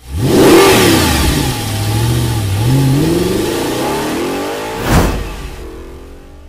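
Race car engine revving hard, its pitch climbing and dropping several times as it accelerates through the gears. A sharp hit about five seconds in, after which the sound fades away.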